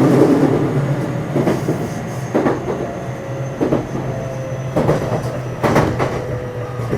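Interior running sound of a JR West 227 series electric multiple unit motor car (Hitachi IGBT VVVF-inverter drive) travelling along the line: a steady rumble with a thin steady whine, and the wheels knocking over rail joints about five times at uneven intervals.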